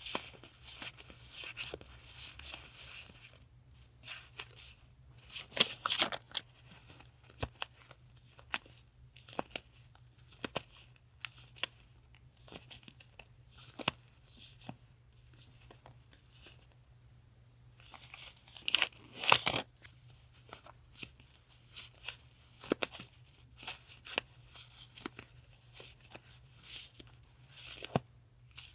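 Paper stationery and its packaging being handled and pulled apart: irregular crinkling, crackling and tearing rustles, with louder bursts about six seconds in and again near twenty seconds. A faint steady hum from a refrigerator runs underneath.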